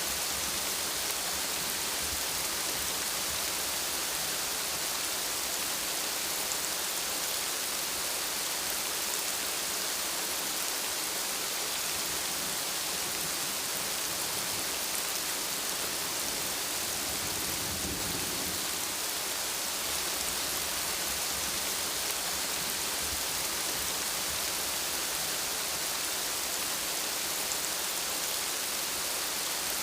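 Steady rain falling, an even hiss with no pause. There is a brief low rumble of thunder a little past the middle.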